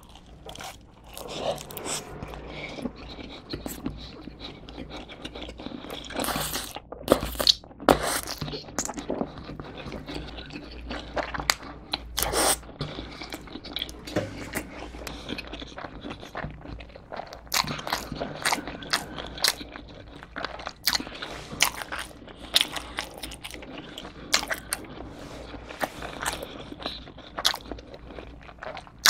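Close-up eating sounds: a piece of pizza crust bitten off and chewed with a full mouth, with many crisp crunches, the loudest about 7 and 12 seconds in.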